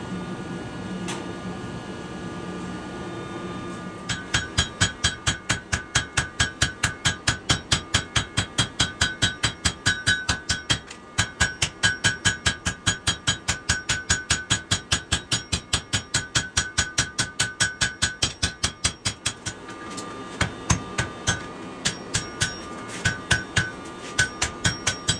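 Hammer forging leaf-spring steel on an anvil: a fast, even run of ringing blows, about three or four a second, starting about four seconds in, with a short pause partway and slower, scattered blows near the end. A steady hum comes before the hammering starts.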